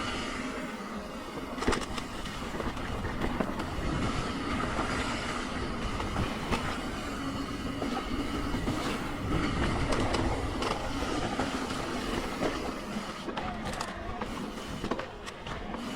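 Mountain bike ridden along a dirt trail: tyres rolling on dirt and the bike rattling steadily over bumps, with wind buffeting the microphone.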